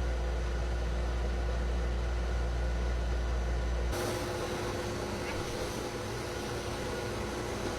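Pet cage dryer blowing: a steady motor hum under a rush of air. About four seconds in, a deep low rumble cuts off and the air noise turns brighter.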